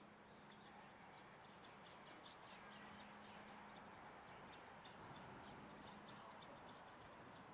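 Faint birds chirping: many short, high chirps repeating several times a second.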